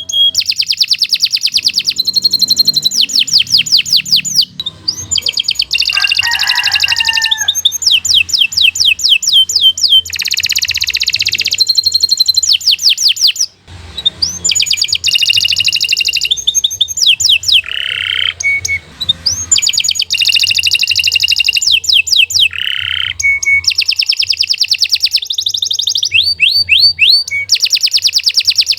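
Domestic canary singing a long, unbroken song of fast repeated trills and sweeping high notes, phrase after phrase, with a short pause about halfway through.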